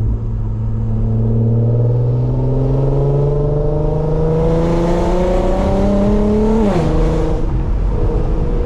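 Car engine accelerating, its pitch climbing steadily for about six and a half seconds. The pitch then drops quickly at an upshift and holds steady lower.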